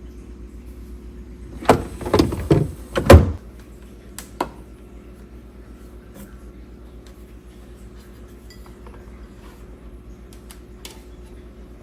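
A quick run of clunks and knocks, as of kitchen things being handled and set down, about two seconds in. Two lighter clicks follow shortly after, with a steady low hum underneath.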